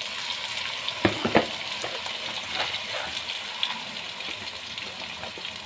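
Soybean sprouts and fried tofu sizzling in hot oil in a pan as they are stirred, with two sharp knocks about a second in.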